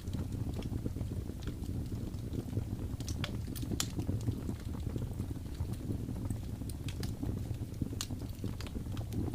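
Wood fire in a fireplace crackling, with irregular sharp pops over a steady low rumble; a few louder pops come about three to four seconds in and about eight seconds in.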